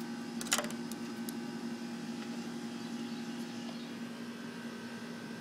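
A steady background hum holding several fixed tones, with a short click about half a second in.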